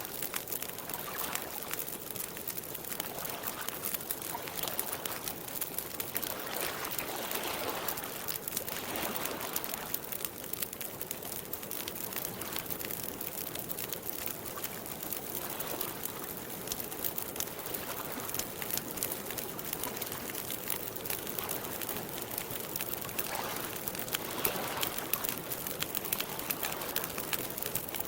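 Campfire crackling with many small rapid pops, over water lapping that swells and fades a few times.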